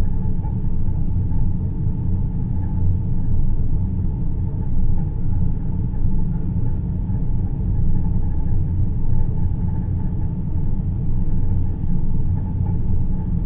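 Steady, deep rumbling drone of a synthesized space-ambience noise track, heaviest in the low bass, with a faint steady hum higher up and no breaks or events.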